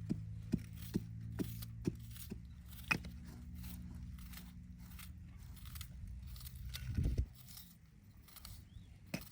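Sharp light knocks, about two a second, over a low steady hum, stopping after about three seconds; a louder dull thump about seven seconds in.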